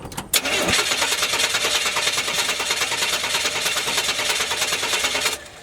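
Carbureted pickup truck engine cranking on the starter with a fast, even rhythm for about five seconds without catching, then stopping abruptly; the owner takes the failure to start for a lack of fuel.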